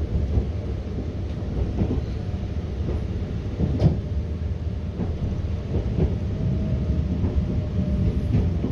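Passenger train running over the track, heard from inside the carriage as it pulls away: a steady low rumble with a few sharp clicks from the wheels crossing rail joints and points. The loudest click comes about four seconds in.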